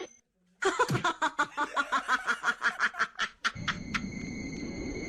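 A person laughing in a quick, even run of short voiced bursts, about seven a second, for about three seconds. This is followed by a steady high-pitched tone over a low hum.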